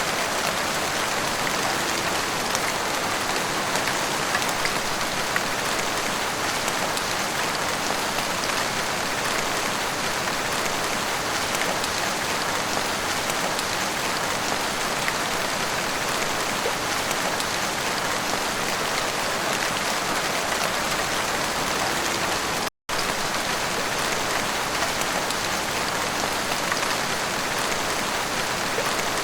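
Heavy rain falling steadily, a dense, even hiss with no let-up. About three-quarters of the way through, the sound cuts out completely for a split second.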